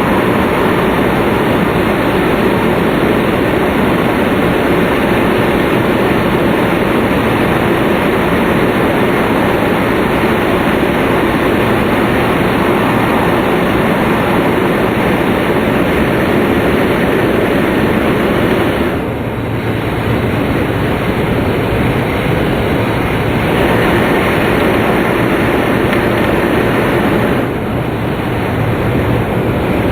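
Steady running noise of an E2-series Tohoku Shinkansen train heard from inside the passenger cabin at speed: a continuous rumble of wheels, track and air. The level dips briefly twice, about two-thirds of the way through and again near the end.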